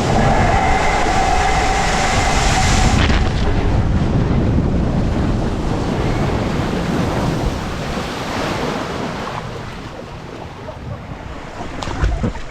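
Water rushing and a rider sliding down a waterslide, heard from a camera carried by the rider. The loud, even rush slowly dies down over the second half.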